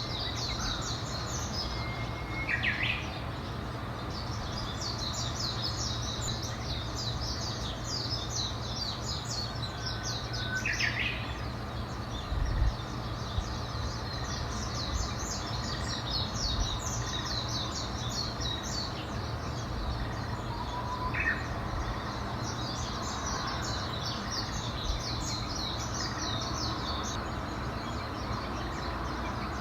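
Wild birds singing: phrases of rapid high-pitched chirping trills recur every few seconds, with an occasional short lower call between them. A steady low rumble runs underneath.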